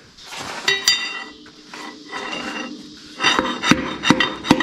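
Hammer tapping pistons out of the cylinder bores of a torn-down 6.0L LS V8 block. A couple of ringing metal clinks come about a second in, then a run of sharp taps, about two or three a second, from about three seconds in.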